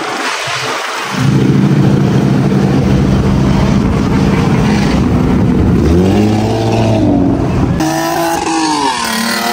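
A car engine running loud and steady, then revving up and down in the last few seconds.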